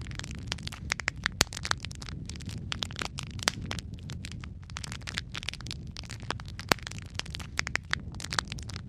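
Wood fire burning in a fireplace: a steady low rumble of flames with frequent irregular crackles and sharp pops of burning wood, a few louder pops among them.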